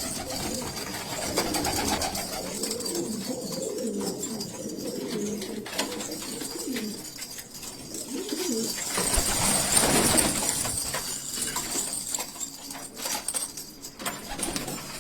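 Domestic pigeons cooing, several low wavering coos overlapping. A louder rushing noise rises and fades about nine to eleven seconds in, with scattered small clicks.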